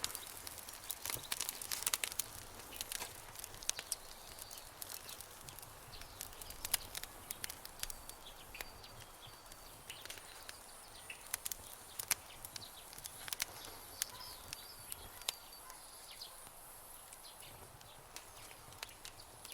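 Campfire crackling, with irregular sharp pops that come thickest in the first few seconds. Faint high chirps sound in the background, and from about halfway in a thin high tone holds steady.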